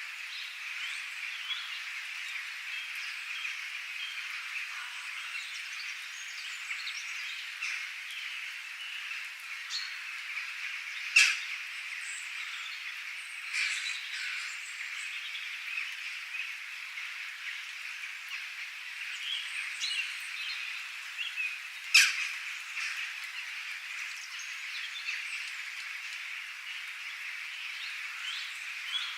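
A dense, steady chorus of small animals chirping and calling, with scattered higher calls on top. Two sharp clicks stand out, about 11 and 22 seconds in, the loudest sounds here.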